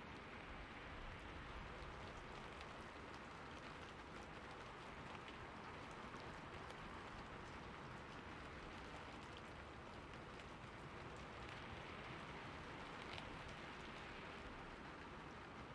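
Steady rainfall: an even hiss of rain with fine drop ticks spattering on a surface.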